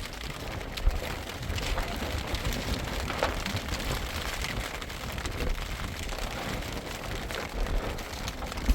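Steady rain falling, with scattered sharp drip ticks over a low rumble.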